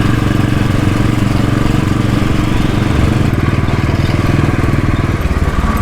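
Royal Enfield Bullet's single-cylinder engine running steadily as the motorcycle is ridden, its even firing pulses heard throughout, with a slight change in note about halfway through.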